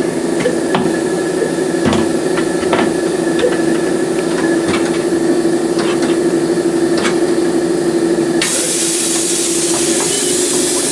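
Shop air compressor humming steadily while metal tools knock and clank against the tire changer several times. About eight and a half seconds in, a loud hiss of compressed air starts suddenly and holds.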